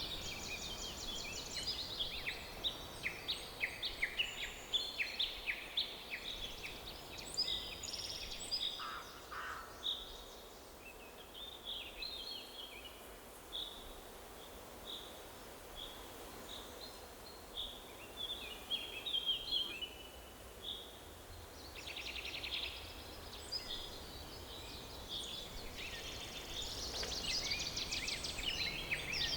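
Forest birdsong: several small birds chirping and trilling in quick high calls over a faint steady background hiss. The calls are busiest at the start and again near the end, thinning out in the middle.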